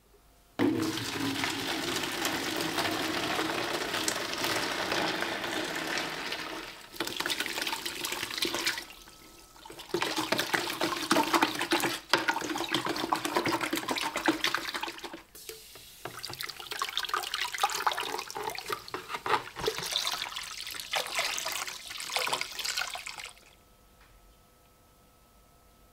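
Water running from a tap and splashing, starting about half a second in, with a few short breaks, and stopping near the end.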